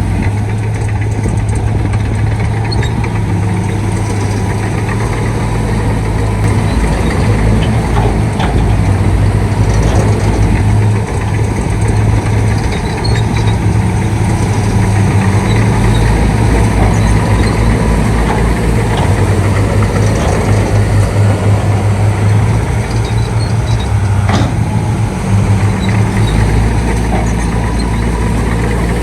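Shantui D95 bulldozer's diesel engine running steadily with a deep hum, its loudness swelling and easing as it works, dipping briefly about eleven seconds in.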